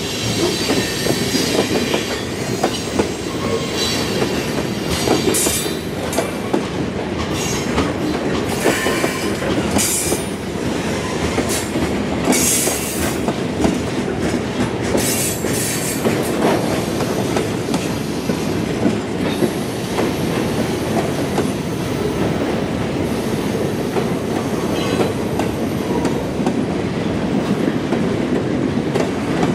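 Freight train cars rolling past, steel wheels clacking over rail joints in a steady stream of clicks, with brief high squeals now and then.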